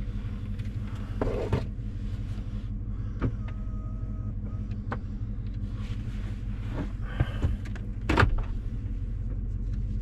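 Chevy Silverado idling, a steady low hum heard from inside the cab, with a few scattered clicks and knocks of things being handled; the loudest knock comes about eight seconds in.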